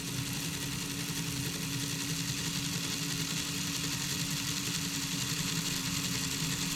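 HO slot car's small electric motor running at a steady speed with a constant whine, as when a new car is being broken in. It fades in at the start and cuts off suddenly at the end.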